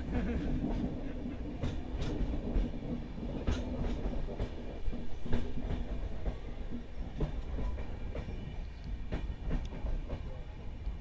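Passenger train coach running along the track: a steady low rumble of wheels on rails, with irregular clicks and knocks as the wheels pass over rail joints.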